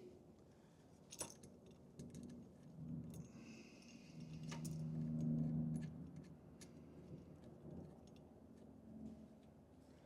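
Faint small metal clinks and clicks as a washer and nut are handled and threaded onto a steering stabilizer's bolt. A low hum swells briefly about halfway through.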